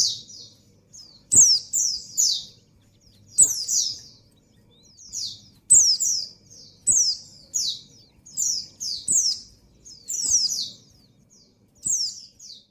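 Female white-eye (pleci) in breeding condition calling for a male: short, high chirps that slur downward, in quick groups of two or three, repeated about once a second.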